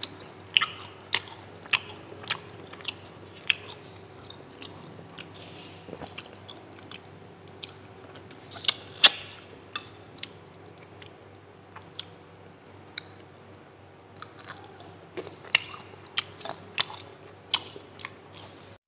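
Close-miked chewing of a prawn eaten shell and all: irregular wet smacks and sharp mouth clicks, busiest about halfway through, over a faint steady hum.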